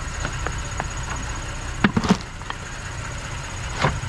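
Plastic buckets being handled, knocking sharply twice about two seconds in and once near the end, over a steady low engine rumble.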